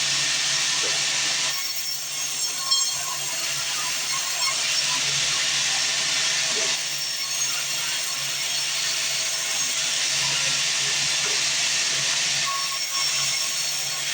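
Sawmill band saw running, a steady motor hum under a loud hiss that swells and eases in long stretches as the blade works through the wood.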